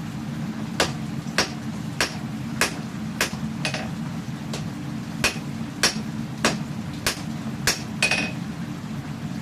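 A hammer striking a katana blade being forged on the anvil: about a dozen sharp blows at a steady rhythm, roughly one every 0.6 seconds, the last one ringing briefly. A steady low hum runs underneath.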